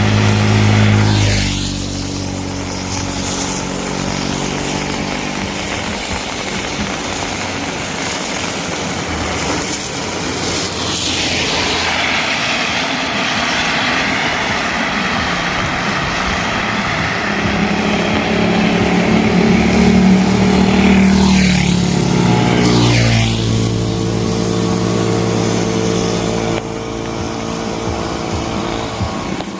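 Motor vehicles driving past on a wet street over a steady hiss of rain: one engine near the start, then another from about seventeen seconds in whose pitch falls as it passes, and a loud passing rush around twenty seconds.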